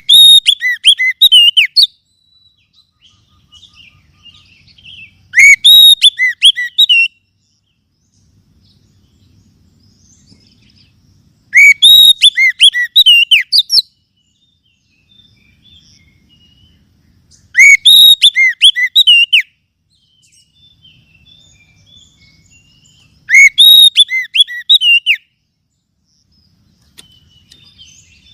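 Oriental magpie-robin (kacer) song: a loud, rapid burst of high chirps and whistles lasting about two seconds, repeated five times about every six seconds, with faint chirping in the gaps.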